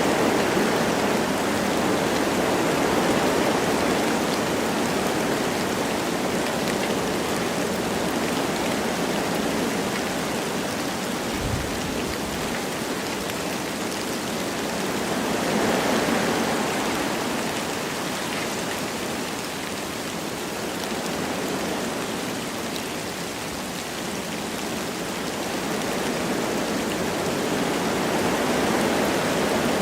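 Wind blowing through forest trees with light rain falling, a steady rushing hiss that swells and eases in slow gusts.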